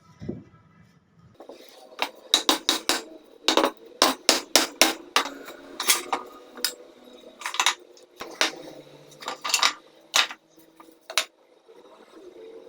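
Hammering during furniture work: about twenty sharp blows in quick, irregular runs, starting about two seconds in and ending near the end. A low hum cuts off just over a second in, before the blows begin.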